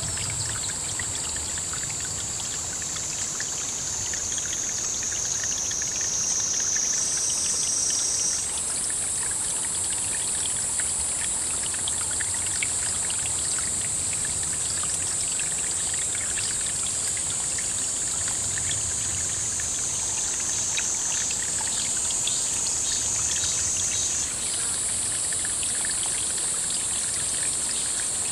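Water trickling steadily, under a continuous high-pitched insect chorus whose pitch jumps higher abruptly twice.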